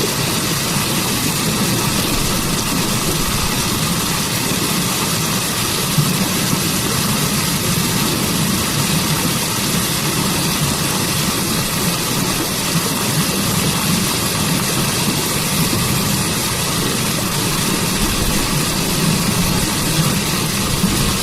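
Waterfall: a steady, unbroken rush of falling water with a low rumble beneath it.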